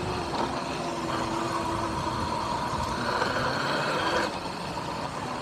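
Electric dirt bike under way: a steady electric motor whine over wind and tyre noise, easing off a little past four seconds in.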